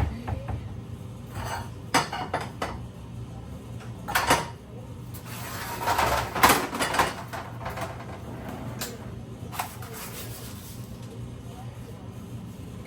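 Scooping cookie dough: a scoop clinks and scrapes against the bowl and baking sheet in scattered knocks, with a longer run of scraping about six to seven seconds in.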